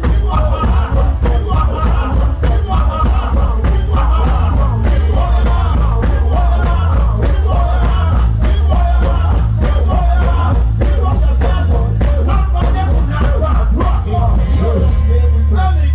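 Loud live gospel band music with a heavy bass line and a steady drumbeat, with many voices singing and calling out over it.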